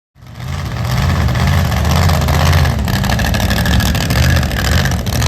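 Monster truck engine running loudly, its pitch wavering up and down slightly.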